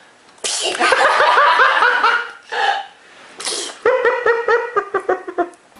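Laughter in two runs of quick, rhythmic pulses, the first starting about half a second in and the second about four seconds in, with short breathy gasps between them.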